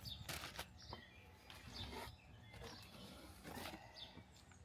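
Faint bird chirps, short and scattered through the background, with a few brief rustles as plant packaging is handled.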